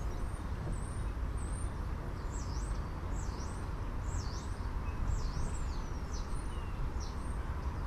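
Outdoor ambience: a steady low background rumble, with a small bird chirping over it. From about two seconds in, the bird gives a run of quick high notes that sweep down and back up.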